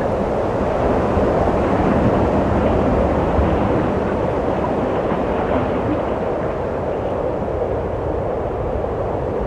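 Wind blowing steadily in a low, rushing surge, swelling slightly over the first few seconds and then easing.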